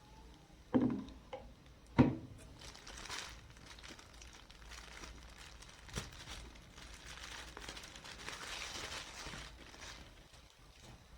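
Packaging being handled while a flood light is unboxed: crinkling and rustling, with two sharp knocks in the first two seconds and a smaller click in the middle.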